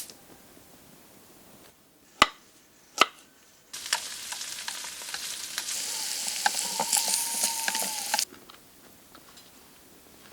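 Two sharp knocks, then about four and a half seconds of food sizzling and crackling as it fries over a campfire, starting and stopping abruptly.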